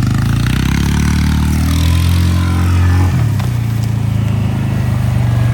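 Motorcycle engine pulling under throttle, its pitch climbing for about three seconds, then dropping sharply and running on steadily.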